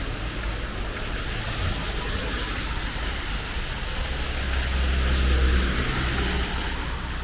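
Steady rain hiss, with a road vehicle passing by. Its low rumble swells to a peak about five seconds in, then fades.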